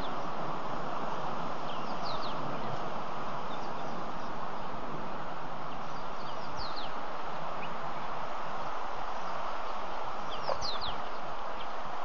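Bush ambience: a steady even hiss, with short, high, falling bird calls about two seconds in, around six and a half seconds in, and again near the end.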